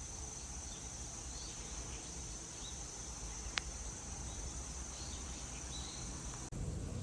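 Insects trilling in one steady high-pitched tone, with a few short chirping calls over a low background hum. A single sharp click comes about three and a half seconds in, and the sound breaks off abruptly just before the end.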